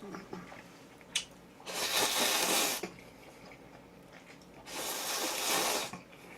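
Two long breathy hissing sounds from the eater's mouth while eating ramen and chicken, each lasting about a second, with a small click between them.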